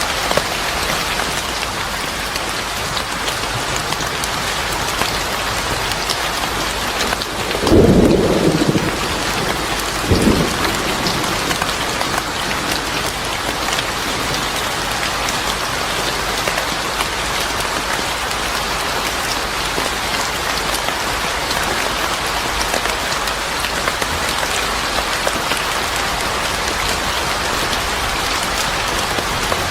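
Steady rain falling, with a loud thunderclap about eight seconds in and a shorter rumble of thunder about two seconds after it.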